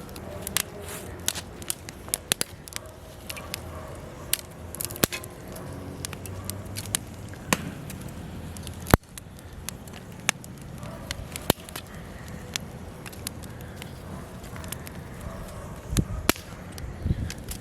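Wood fire burning in a fireplace: irregular sharp crackles and pops over a steady low rumble of flames, the loudest pop about nine seconds in and a couple of low thuds near the end.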